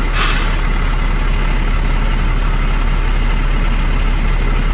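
Heavy diesel truck engine idling steadily, with a short hiss at the very start.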